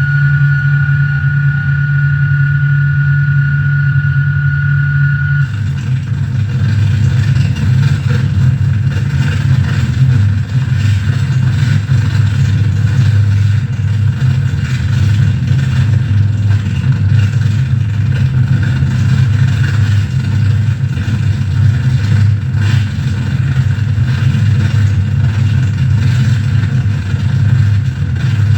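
Loud noise-music drone from a mixer-feedback rig with bass and reverb: a heavy low rumble under a steady high tone. About five seconds in the tone stops and the sound turns into a thicker, hissy texture over the same rumble.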